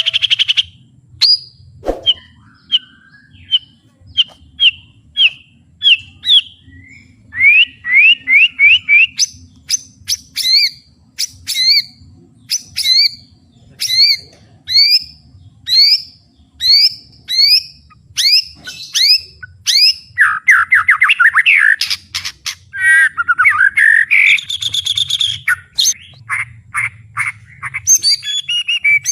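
White-rumped shama singing loudly: a string of sharp, repeated whistled notes at about one a second, quickening into fast runs of notes and dense rapid trills in the second half.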